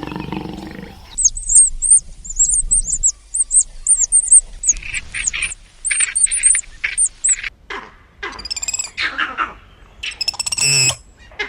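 Small birds chirping: many quick, high twittering notes, with a few louder, lower calls near the end. A low roar fades out in the first second.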